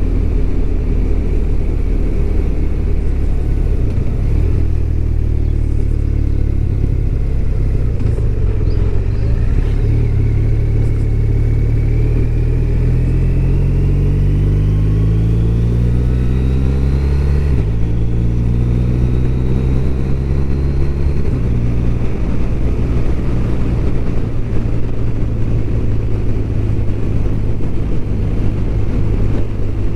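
BMW R1200RT's flat-twin engine on the move, with steady wind noise. Engine pitch climbs from about a third of the way in, drops suddenly at an upshift a little past halfway, climbs again, then shifts once more and settles to a steady cruise.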